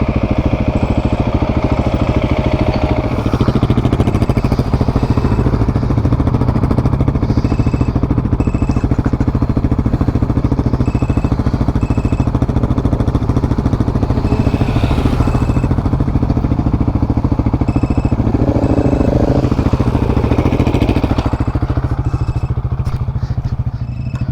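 Motorcycle engine running steadily, with a brief rise in engine pitch about three quarters of the way through.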